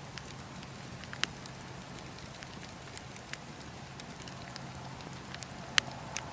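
Bonfire crackling: scattered sharp pops and snaps at uneven intervals over a steady low hiss, with the loudest pops about a second in and near the end.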